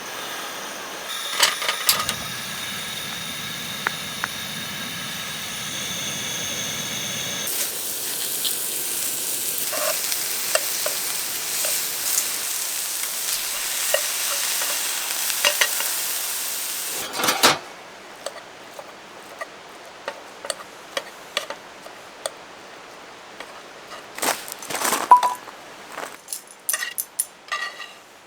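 Food sizzling on hot cookware, a loud steady hiss that stops abruptly with a clank, followed by scattered clinks of utensils against pots and pans.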